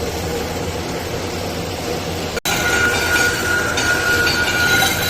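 Steady machine noise in a welding workshop. After a sharp cut about two and a half seconds in, a steady high whine joins it.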